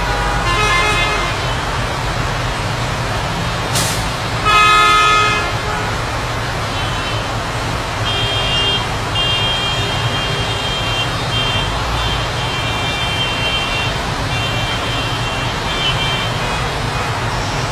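Steady road traffic noise with a vehicle horn sounding once for about a second, about four and a half seconds in. Thin high tones come and go through the second half.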